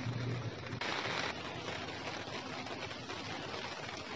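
Steady hiss of light rain, with a brief swell in the hiss about a second in. A low hum fades out in the first half second.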